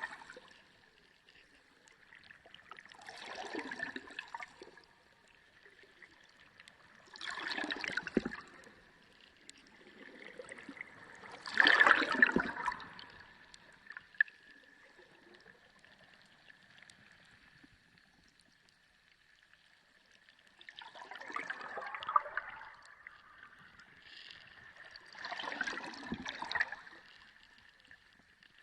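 Sea water heard underwater: five surges of gurgling, bubbling water, each swelling and fading over a second or two, with a quieter stretch in the middle. A faint steady high tone runs beneath.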